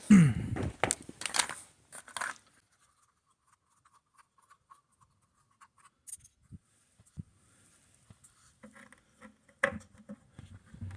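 Plastic scraping and creaking as a chicken waterer cup is forced and twisted into a drilled hole in a plastic bucket: a short squeak and rubbing in the first couple of seconds, then only faint handling clicks. The cup is a tight fit that will need screwing in.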